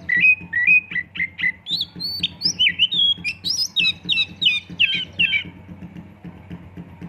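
Oriental magpie-robin singing a fast string of varied, sliding whistled notes, which stops about five and a half seconds in.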